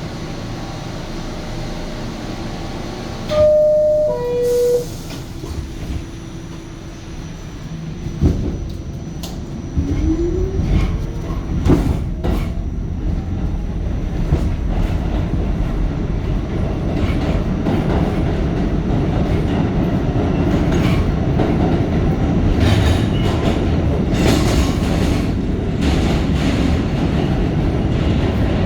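R46 subway car heard from inside: a two-note descending door chime about three seconds in, a thump a few seconds later, then the train pulls out with a rising motor whine and builds to steady running noise with repeated wheel clatter.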